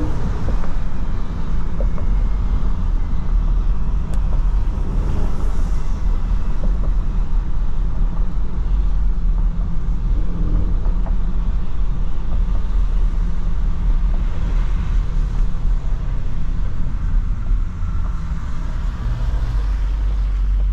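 SRT Jeep's engine and tyre noise on wet road, heard from inside the cabin while driving at a steady pace.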